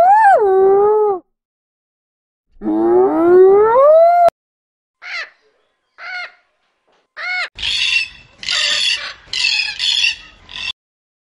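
Two long hyena whoops rising in pitch, the first rising then falling away. Then an eclectus parrot gives a few short calls followed by a run of loud, harsh squawks.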